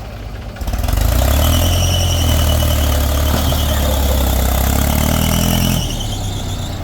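JCB 3DX backhoe loader's diesel engine rising to a higher, loaded run about half a second in, with a high-pitched squeal over it. Near the end it drops back to a lower, steady run.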